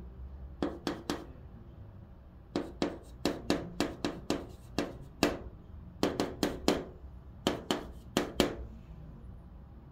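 Chalk writing on a blackboard, hanja characters, in clusters of short, sharp taps and scrapes: three strokes, then a quick run of about ten, then two more groups of about five.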